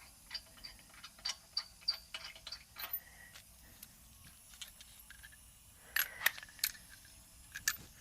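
A socket ratchet clicking irregularly while lug nuts are worked off a car wheel, with scattered light metallic ticks; a few louder clicks come near the end.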